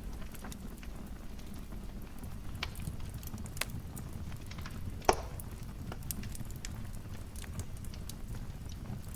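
Wood fire in a fireplace crackling: a steady low rumble of flames with scattered sharp crackles, and one louder pop about five seconds in.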